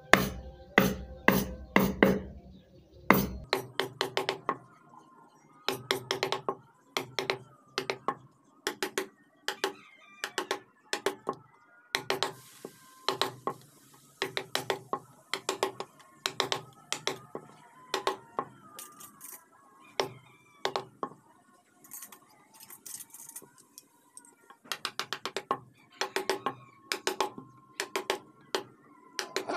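Wooden mallet tapping a carving chisel into wood: a steady run of sharp taps, about three a second, with a couple of short pauses.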